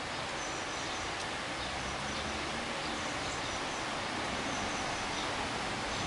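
Heavy rainstorm: a steady, even hiss of falling rain, with a few faint high bird chirps in the first second or so.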